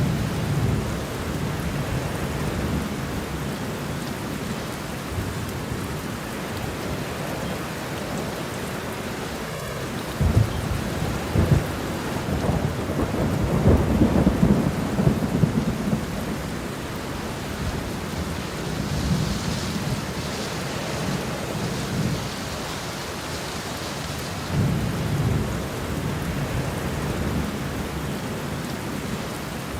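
Steady rain with low rolls of thunder. The longest and loudest roll comes about ten seconds in and lasts some six seconds, with shorter rumbles at the start and again near the end.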